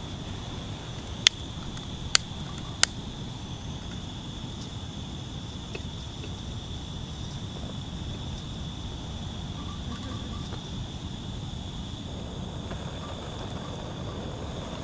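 Outdoor ambience with an insect's steady high-pitched buzz, over a low rumble of background noise. Three sharp pops or snaps sound in the first three seconds.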